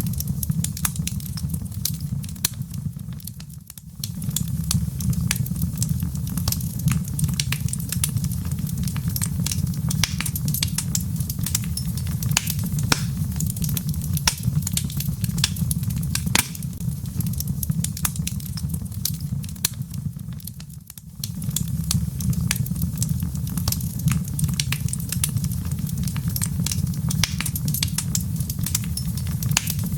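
Log fire crackling: a constant stream of sharp pops and snaps over a steady low rumble. The level dips briefly twice, about 4 seconds in and again about 21 seconds in.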